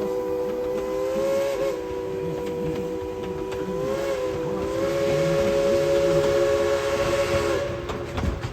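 Steam locomotive #190's repaired chime whistle blowing one long blast of several notes together, its pitch wavering slightly twice before it cuts off near the end, with steam hiss beneath.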